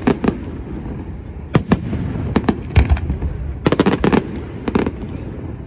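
Fireworks show: aerial shells bursting in quick clusters of sharp bangs over a continuous low rumble.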